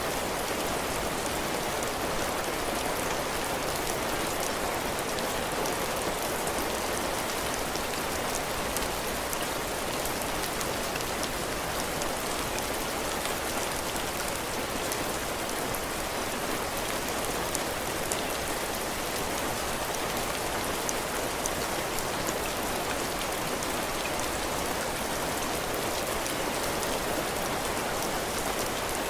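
Heavy rain falling steadily on a cabin porch roof and floor, a constant hiss with fine drop patter.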